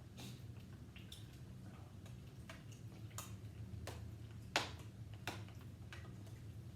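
Irregular light clicks and clinks of utensils against bowls and the hot pot, one sharper clink about four and a half seconds in, over a steady low hum.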